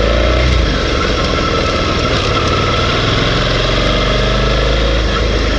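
Suzuki V-Strom 650's V-twin engine running steadily, with a constant hum and no change in pitch.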